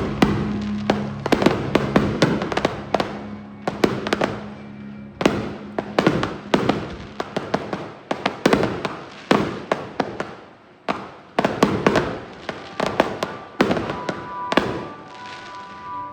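Aerial fireworks bursting in rapid succession: dozens of sharp reports, some in quick clusters, with crackle between them.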